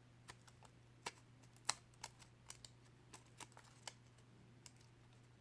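Faint, irregular light clicks and taps of paper craft pieces being handled and glued, the loudest about a second and a half in.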